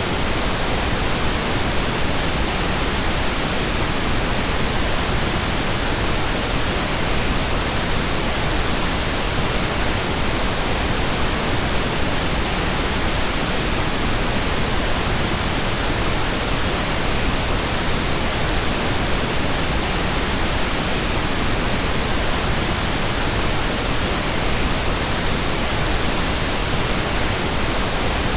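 Steady, unchanging pink noise: an even hiss spread across all frequencies.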